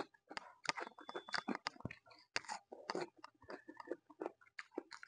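Raw cucumber slice being bitten and chewed, a rapid, irregular run of crisp wet crunches.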